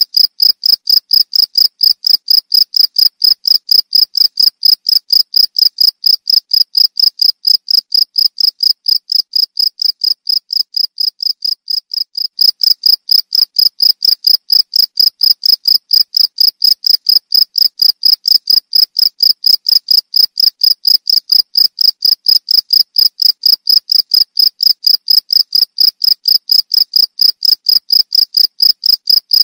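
Cricket chirping: a steady, loud train of evenly spaced high chirps, about three a second, easing slightly in loudness for a moment about ten seconds in.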